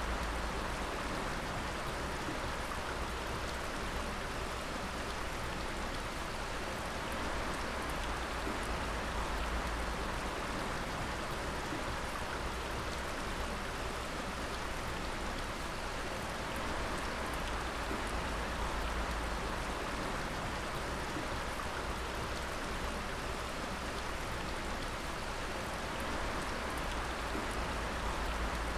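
Water dripping and pattering steadily onto wet rock and pools, like rain, with a low steady rumble underneath.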